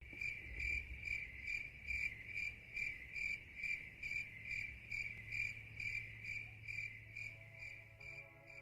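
Cricket chirping: a high, even chirp repeated about two to three times a second, fading a little near the end.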